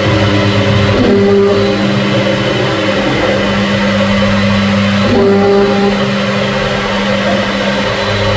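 CNC machine running, its motors giving a steady whine that shifts in pitch briefly about every four seconds as the moves change.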